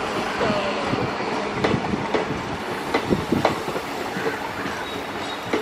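Passenger coaches of an Indian Railways express train rolling past: a steady rumble of wheels on track, broken by sharp, irregular clicks and clacks as the wheels cross rail joints.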